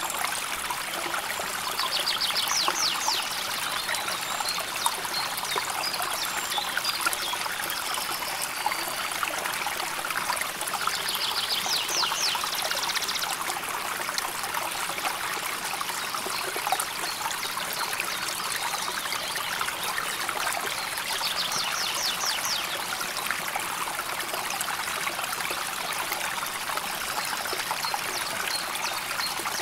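River water flowing and babbling steadily over stones. A small bird gives a short, high, rapid trill three times, roughly every nine to ten seconds.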